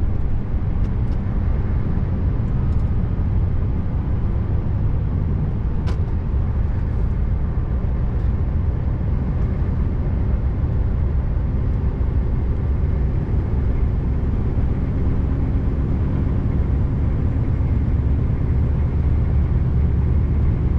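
Scania R590's V8 diesel engine running steadily under way, a continuous low drone mixed with road noise.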